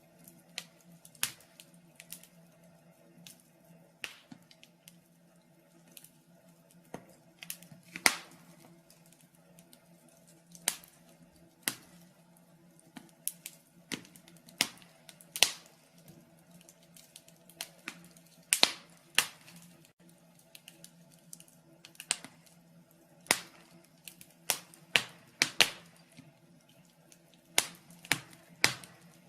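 Wood fire in a fireplace crackling, with irregular sharp pops and snaps over a faint steady hum.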